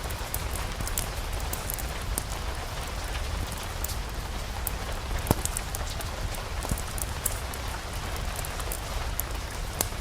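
Steady rain with scattered sharp ticks and pops, and one louder snap about five seconds in.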